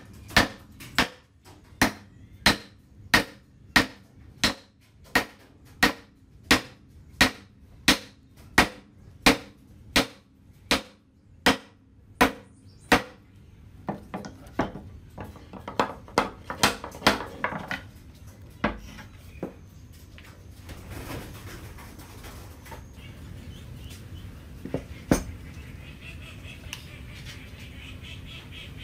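Steady hammering, about three blows every two seconds, for the first half. It then gives way to softer, irregular taps, and there is a single blow later on.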